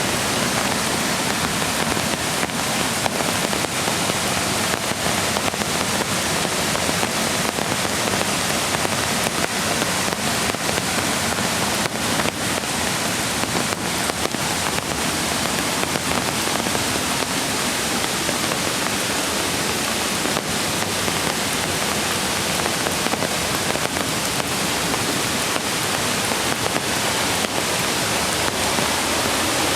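Steady hiss of rain mixed with a mountain creek rushing close by, unbroken throughout.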